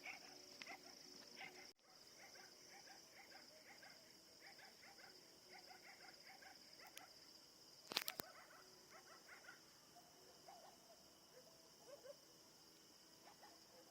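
Faint night ambience: distant dogs barking on and off over a steady high insect chirring, with one sharp click about eight seconds in.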